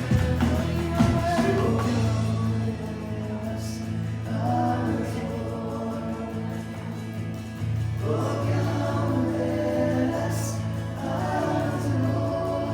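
Slow worship song: a group of voices singing together over sustained chords.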